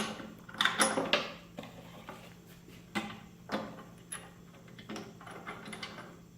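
Steel mounting hardware for a load cell (bracket, bolts and jam nuts) being handled and fitted: a cluster of ringing metal clinks about a second in, two sharper knocks around three seconds, then lighter ticks, over a faint steady low hum.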